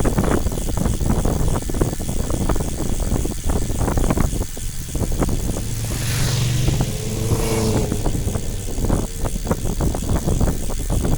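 Wind buffeting the microphone with a rough, uneven rumble; about six seconds in, a motor vehicle's engine hum rises and passes over a couple of seconds.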